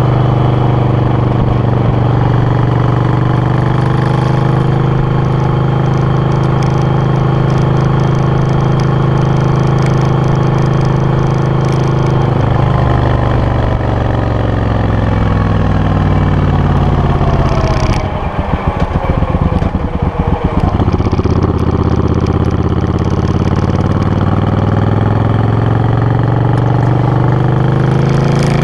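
Suzuki VS800 Intruder's V-twin engine running steadily, then slowing to a low, uneven chug a little past the middle before its revs climb again toward the end.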